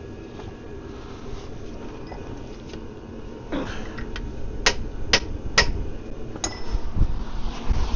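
Hammer striking a steel chisel on metal: four sharp, ringing metallic blows about halfway through, the first three about half a second apart.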